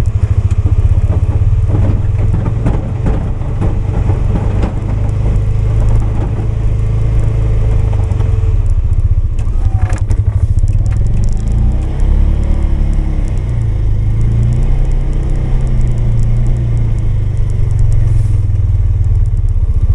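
Polaris 570 ATV's single-cylinder engine running close up while plowing snow, its pitch dropping about halfway through, then rising and falling with the throttle.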